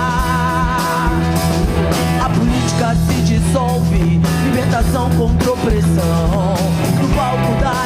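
Live rock band playing: electric guitars, bass guitar and drum kit, with a lead line that wavers and bends over steady bass notes and regular drum hits.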